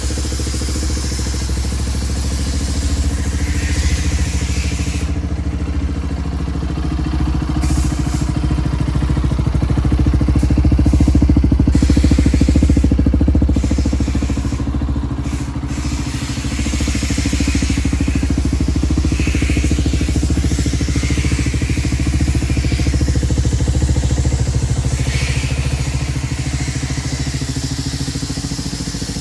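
Lexmoto Tempest 125 engine idling steadily, slightly louder around the middle.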